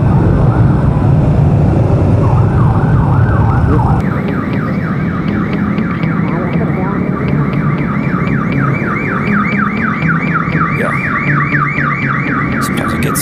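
Electronic alarm sounding in rapid rising sweeps, about three a second, growing louder about four seconds in, over the low rumble of engines in slow traffic.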